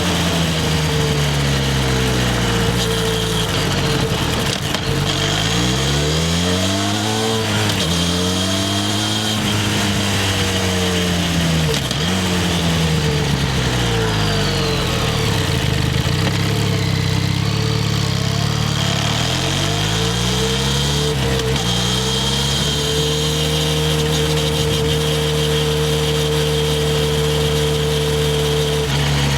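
Harley-Davidson X350's parallel-twin engine under way, revving up and dropping back several times as it pulls through the gears and eases off, then holding a steady cruise near the end, with wind noise over it.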